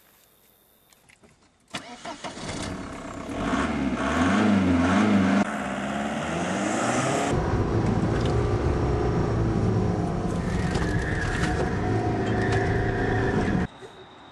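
A car engine is started about two seconds in and revved, its pitch rising and falling. It then runs steadily as the car drives, and cuts off suddenly near the end.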